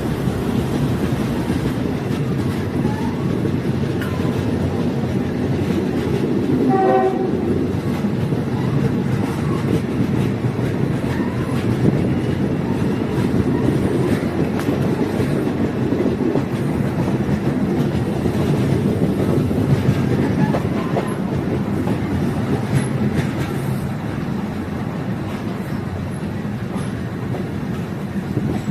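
Diesel multiple unit train running along the line, heard on board: a steady rumble of engine and wheels on rails, with a short horn blast about seven seconds in.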